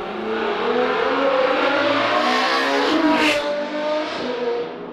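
A car engine accelerating hard, its pitch climbing and dropping back at each gear change several times, with a brief whoosh about three seconds in.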